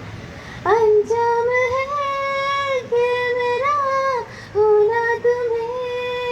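A woman singing solo, long held high notes with small turns and slides in pitch. The voice comes in about a second in and pauses briefly near the middle.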